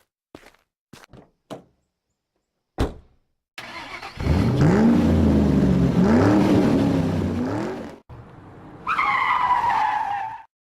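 A few light clicks and a thump, then a 1964 Ford Thunderbird's V8 engine revved hard twice, its pitch climbing and dropping each time. Near the end comes a short high squeal that falls in pitch.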